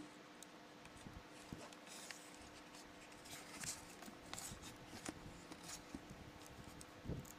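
Faint room tone: a low steady hum with scattered small clicks and rustles, a slightly louder rustle near the end.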